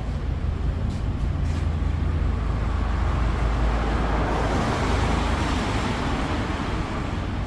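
Road traffic with a steady low rumble; the noise of a passing vehicle swells up around the middle and then fades.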